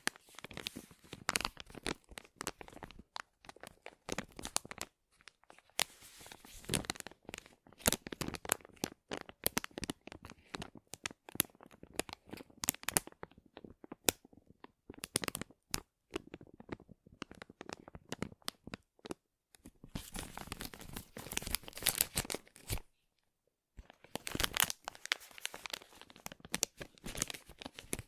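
Close-miked crinkling and crackling handling sounds in dense, irregular flurries, broken by a few short pauses.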